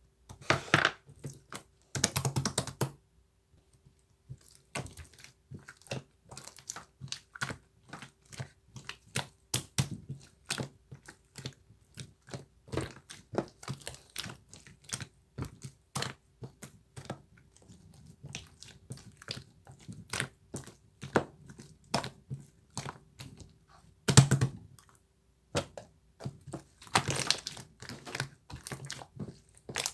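Irregular clicking and tapping, like typing on a keyboard, a few clicks a second, with brief rustling bursts about a second in, near the middle of the last third, and near the end.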